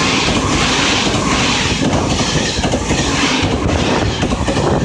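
JR Shikoku 8000 series electric express train passing through a station at speed: a loud, steady rush of wheel and air noise, with the wheels clacking rapidly over the rail joints.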